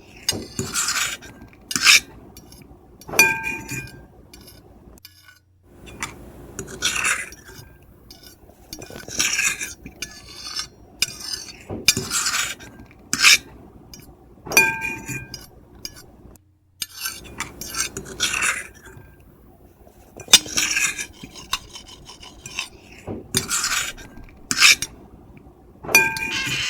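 Metal fork and knife scraping across a plate in repeated strokes every second or two, some strokes leaving a short ringing squeal, with two brief drop-outs to silence.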